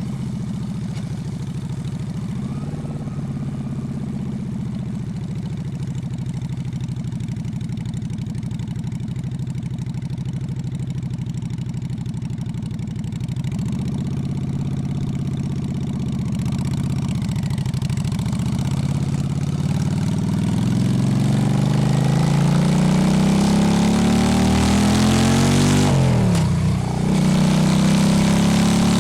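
Honda Shadow V-twin motorcycle engine idling steadily, then pulling away and accelerating, its pitch rising and the sound growing louder, with a sudden dip at a gear change near the end before it rises again.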